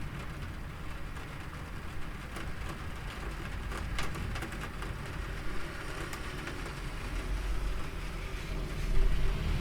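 Rain falling steadily, with scattered sharp drop taps and a continuous low rumble underneath; a sudden louder crack comes near the end.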